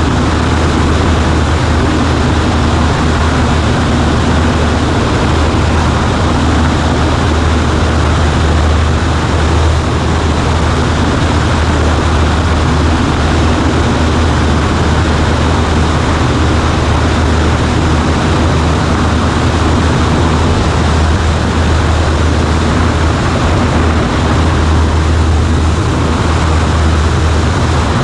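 Cessna 140A light aircraft's piston engine and propeller running steadily, a loud continuous drone with a deep low hum.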